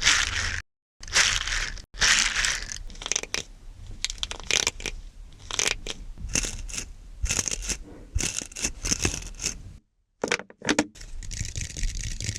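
Plastic being squeezed and crinkled right at the microphones, in quick crunchy bursts. The sound cuts out suddenly twice, once just under a second in and again around ten seconds in.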